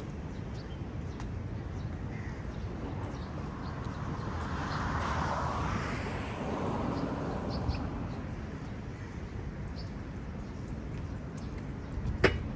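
Outdoor city ambience: a steady low background rumble. A broad noise swells and fades in the middle, and there is one sharp click near the end.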